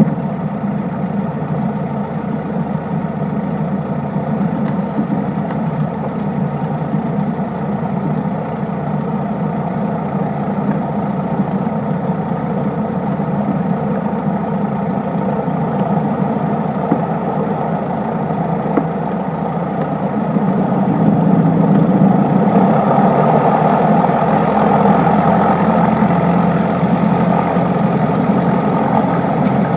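Cessna 152's four-cylinder Lycoming O-235 engine and propeller running steadily, growing louder about 21 seconds in.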